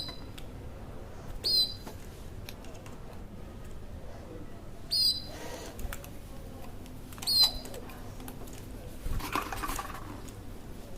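A bird chirping: four short, high chirps spaced a few seconds apart.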